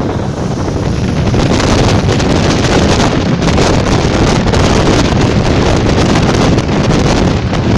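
ČD class 460 electric multiple unit running at speed, a loud steady rush of running and wind noise with heavy wind buffeting the microphone, swelling slightly about a second and a half in.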